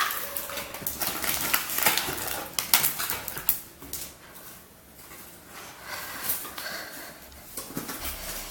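Pitbull–Labrador mix dog playing with a toy: an irregular run of clicks, scrapes and knocks.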